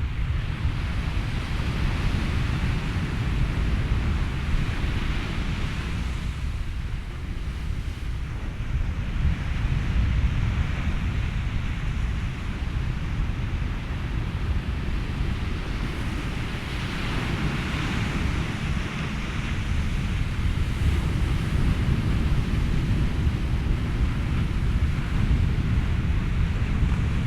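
Ocean surf washing in slow swells that rise and fade every several seconds, over a steady low wind rumble and a bed of white noise.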